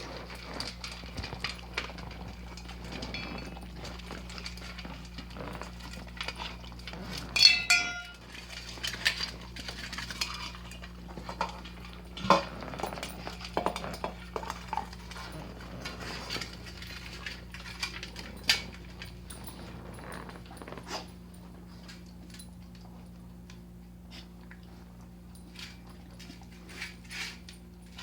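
Pets eating from food bowls: irregular clicking and clinking of the bowls and food, a few louder clinks among them, thinning out near the end.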